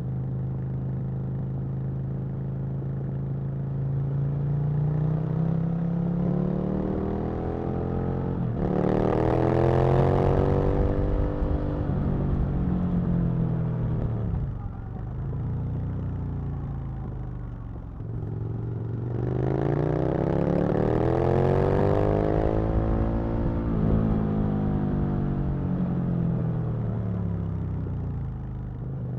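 Aprilia RSV Mille's V-twin engine heard from the rider's seat, pulling hard and easing off. The pitch climbs and falls several times, with two strong accelerations about nine and nineteen seconds in. After the second it winds down for a long stretch.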